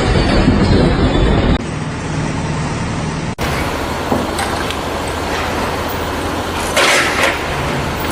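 Vehicle engine and road noise, changing abruptly about one and a half and three and a half seconds in, with a brief louder hiss near the end.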